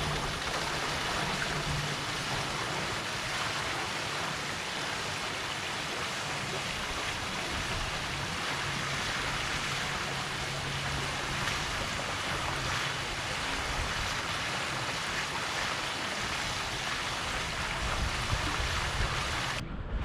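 Incoming tidal water pouring and rushing steadily, with a faint low hum underneath.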